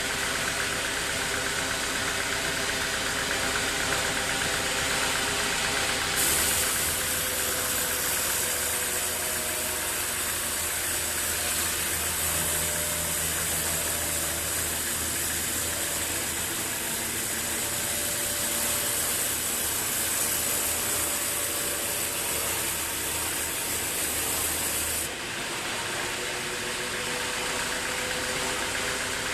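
Sawmill machinery running with a steady engine-like hum. About six seconds in, a loud high hiss and a deeper hum join. They cut off suddenly a few seconds before the end.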